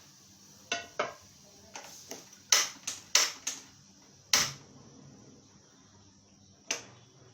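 A utensil clanking against a cooking pot of hot conditioner mixture: about ten sharp knocks at uneven intervals, the loudest about halfway through.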